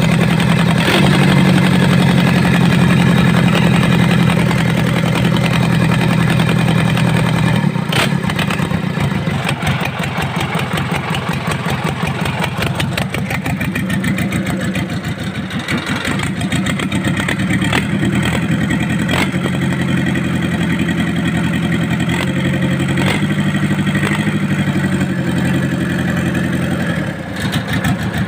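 Mitsubishi 4D34 four-cylinder diesel engine running steadily, a little louder at first and settling a bit lower about eight seconds in.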